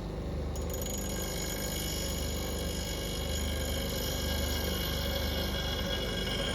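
Bench grinder running while the bevel of a steel roughing gouge is ground on its aluminium oxide wheel: a steady hum with high, even ringing tones over it.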